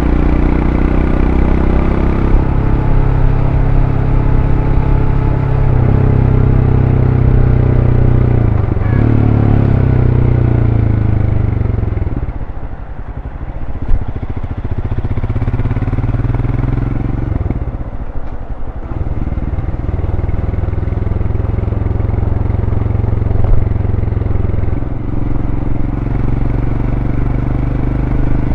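Royal Enfield Scram 411's air-cooled single-cylinder engine through its stock exhaust, running under way. Its pitch steps and glides with throttle and gear changes, and it eases off briefly twice, about halfway through and again a few seconds later, before pulling on steadily.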